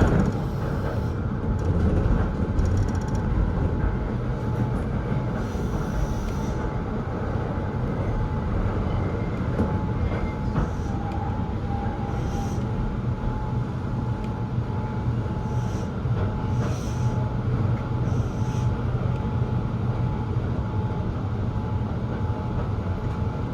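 Keihan 800-series electric train running on the rails: a steady low rumble of wheels and running gear, with a faint thin tone through it and a few short hissy patches.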